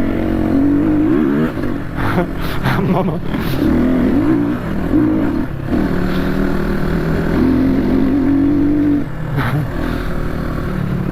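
Motorcycle engine running on a rough off-road track, its pitch rising and falling as the throttle is worked, with a few knocks and clatter from the bike over the bumps.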